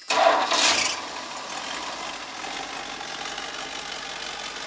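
1984 Dodge 360 small-block V8 catching right away, flaring loudly for about a second, then settling into a steady idle. It starts without any pumping of the gas.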